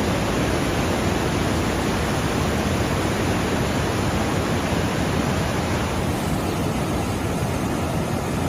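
Fast-moving floodwater of a swollen river rushing in a steady, even roar.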